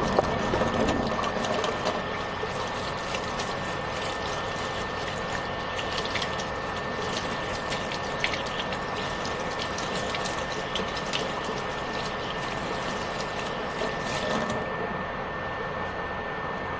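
Kitchen tap running and splashing as hands are washed under it, turned off near the end. Underneath, the cooling fan of a countertop stovetop burner runs steadily with a high, even whine; it is loud.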